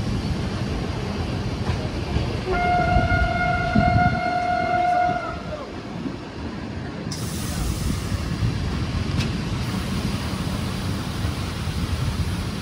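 Passenger train running with a low rumble that eases about five seconds in. About two and a half seconds in, a train horn sounds a single steady note for nearly three seconds.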